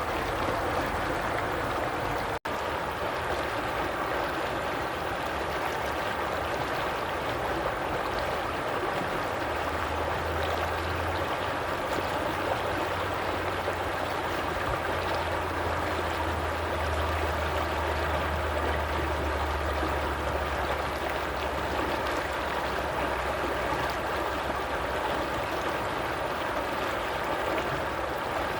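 Stream water flowing in a steady, even rush, with a momentary dropout about two seconds in and a faint low rumble through the middle.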